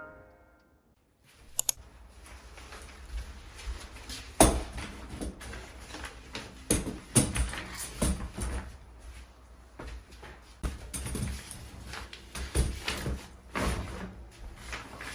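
Indoor ambient sound: a steady low hum with a scattered series of sharp knocks and clicks, like doors, cupboards or objects being handled. It starts after a second or so of near silence and stops just before the music returns.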